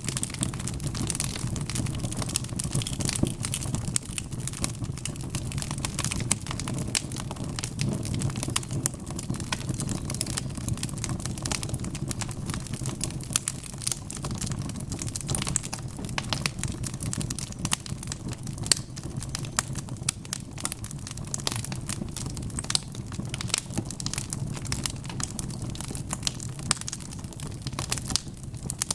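Wood fire crackling steadily: dense, irregular pops and snaps from burning logs over a low rumble of flame.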